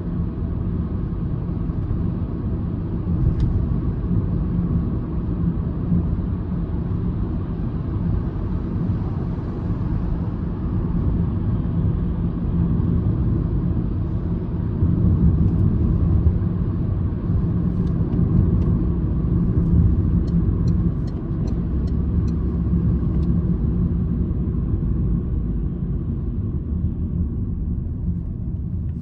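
Citroen C-Elysee's 1.2 PureTech EB2 three-cylinder engine and tyre rumble heard from inside the cabin while driving, a steady low drone. A short run of light ticks comes about two a second in the second half.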